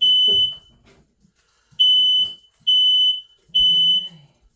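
Household smoke alarm sounding, three loud high-pitched beeps in a row after a pause, the repeating fire-alarm pattern; a very sensitive alarm set off by cooking.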